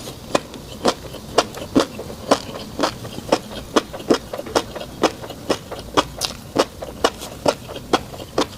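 Chewing a mouthful of fish roe: short crisp wet pops in a regular rhythm, about two a second.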